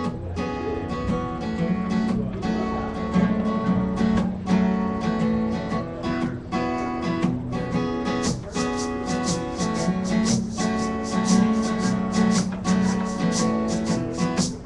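A live band plays the instrumental intro of a song, with acoustic guitar strumming chords. About halfway through, a quick, even rhythm of bright ticks joins the guitar.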